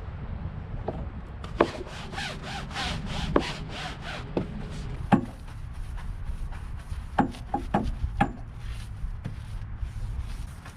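Stiff brush scrubbing a boat's surface with soapy cleaner, a quick run of back-and-forth strokes at about four a second, then slower scrubbing broken by a few sharp knocks near the middle.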